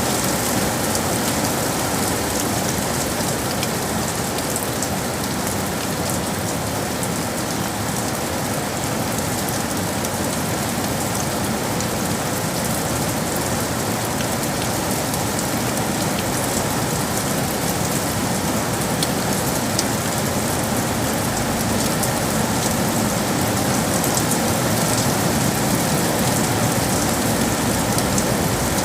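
Steady rain falling on hard surfaces, a dense even patter of many drops.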